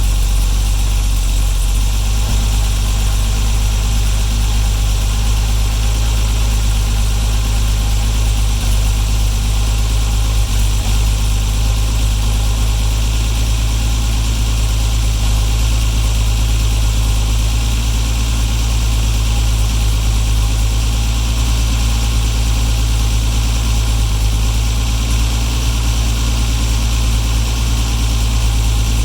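Jaguar E-Type engine idling steadily through new Bell stainless-steel mufflers, with a low, even exhaust note.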